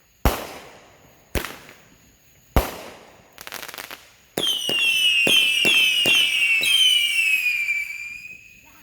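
Multi-shot firework cake (a 32-shot 'snake eye') firing. Three sharp bangs come about a second apart, then a brief crackle, then several overlapping whistling shots whose high whistles fall slightly in pitch and fade near the end.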